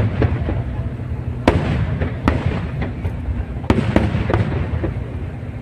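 Aerial fireworks display: shells bursting in a run of sharp bangs, about five strong ones with smaller pops between, over a continuous low rumble of further bursts.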